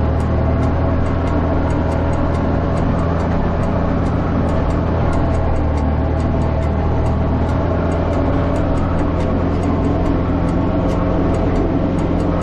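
Tractor engine running steadily under load with a low, even drone.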